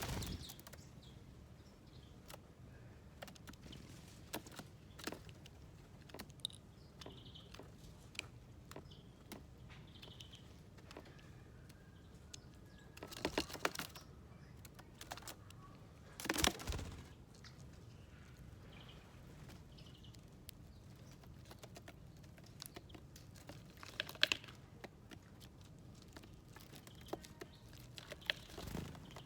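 Small wild birds at a seed dish: scattered light taps and clicks of pecking and shuffling on the feeder, with a few faint short chirps. A few brief louder wing-flutters come around the middle and once more later on.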